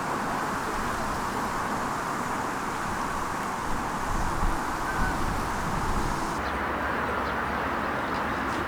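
Steady outdoor background noise, with a few soft knocks a little past the middle.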